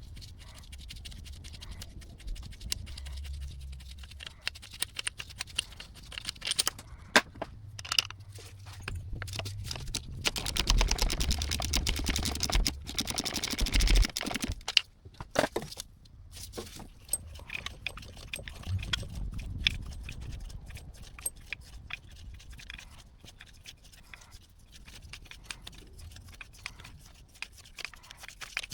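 Hand tools working on the starter's mounting bolts: runs of quick, even ratchet clicking with metallic clinks and scrapes, busiest about a third of the way in.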